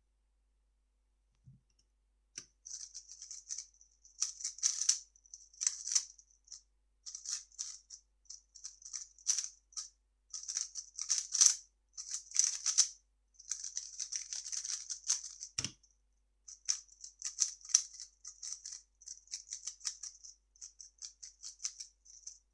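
3x3 speedcube being turned very fast: quick runs of plastic clicking and rattling from its layers, broken by short pauses. There are two soft knocks, one just before the turning starts and one about two-thirds through.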